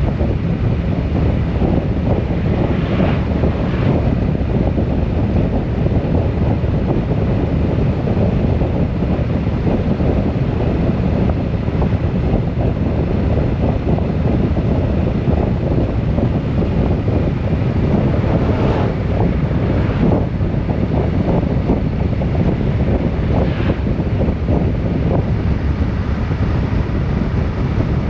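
Heavy wind rushing over the microphone on a moving vehicle, with a steady low road and engine rumble underneath.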